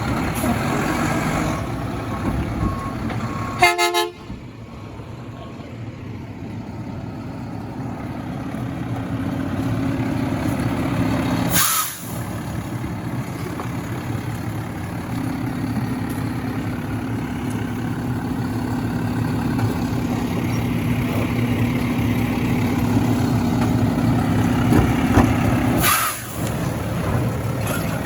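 Garbage truck running steadily, with a short horn toot about four seconds in.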